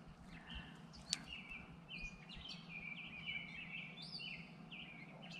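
Birds chirping in quick repeated short notes, faint, with a single light click about a second in.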